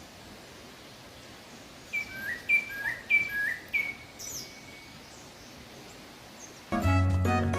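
A wild bird gives a two-note call four times in a row, a higher note then a lower one, over a faint steady forest hiss. Near the end, music starts and is louder than the birdsong.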